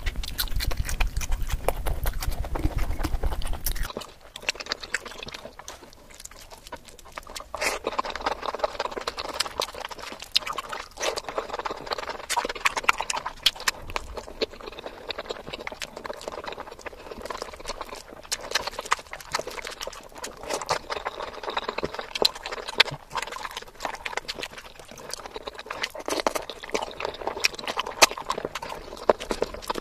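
Close-miked ASMR eating sounds: chewing and wet mouth smacks of someone eating chicken biryani by hand, a dense run of short, sharp clicks and smacks. The first four seconds are louder and fuller, then the sound changes to quieter, crisper smacks.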